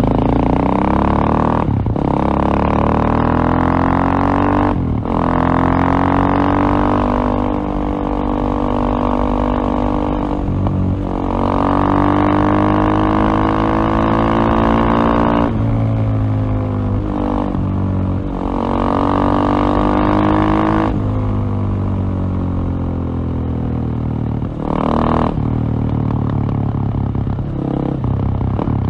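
KTM LC4 620 single-cylinder four-stroke motorcycle engine under way, running hard at held revs with a brief throttle cut or gear change every few seconds, six times.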